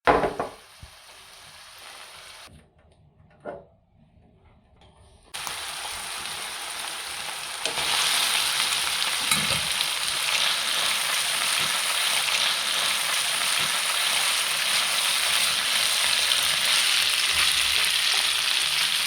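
Food sizzling in a frying pan. A sharp knock comes at the start, then a steady sizzle sets in about five seconds in and grows louder a couple of seconds later.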